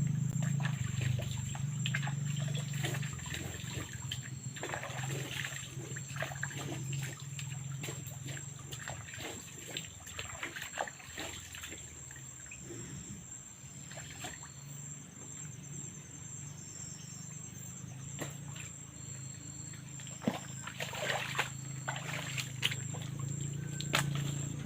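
Outdoor ambience: a steady, thin, high-pitched whine under a low hum that fades after the first few seconds, with scattered crackles and ticks throughout.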